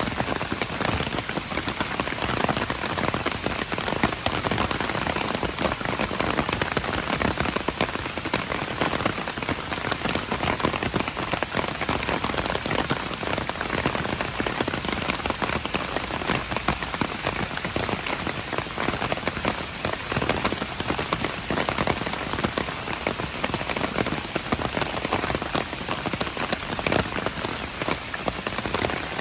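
Steady rain falling on hard surfaces: an even, dense hiss filled with countless individual drop strikes, unchanging throughout.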